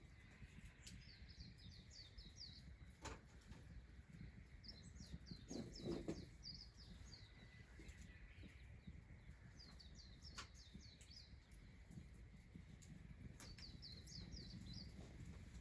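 A small songbird singing a short phrase of rapid high notes, repeated about every four seconds, faint against quiet outdoor background noise, with a couple of soft clicks between phrases.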